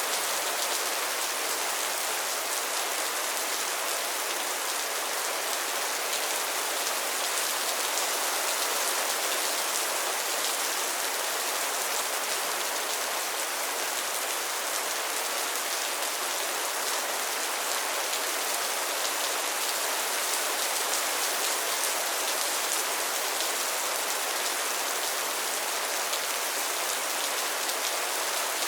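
Steady rain falling on a pond and its lily pads: a dense, even hiss of many small drops hitting water and leaves.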